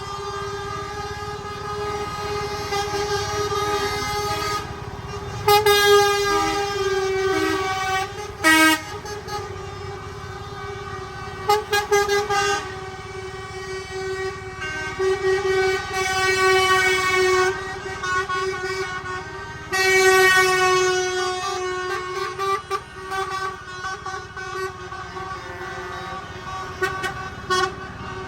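Trucks sounding their horns in repeated loud blasts over a steady droning horn-like tone.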